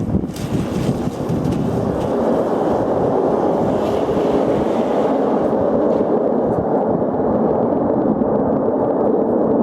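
Tupolev Tu-154M on its landing, a loud steady rumble of engines and airframe, with a brief sharp knock just after the start.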